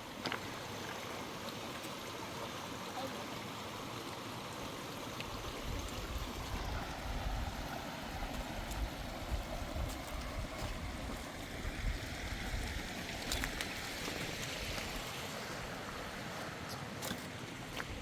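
Steady rush of rain and running water, with gusts of wind buffeting the microphone as a low rumble through the middle, and a few sharp clicks.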